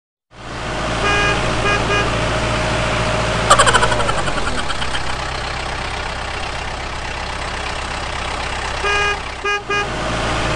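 Motor vehicle engine running steadily, with short horn beeps in quick groups about a second in and again near the end. There is a sudden louder blast about three and a half seconds in.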